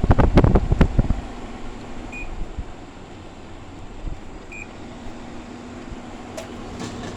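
A burst of clattering knocks in the first second, then an electronic air conditioner's control panel beeps twice as it is switched on, over a low steady hum.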